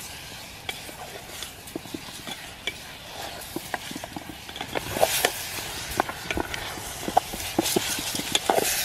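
Chicken and spices frying in a pot over a campfire: a steady sizzle with irregular knocks and scrapes of a utensil stirring in the pot, getting busier about five seconds in.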